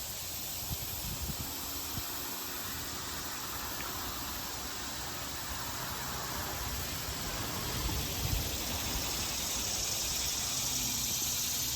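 Steady rushing noise of riding a bicycle: wind on the microphone and tyres rolling on the trail, with a few low bumps, growing a little louder in the second half.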